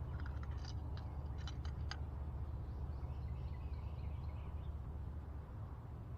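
Outdoor ambience: a steady low rumble with short, high bird chirps in the first couple of seconds and fainter high calls around the middle.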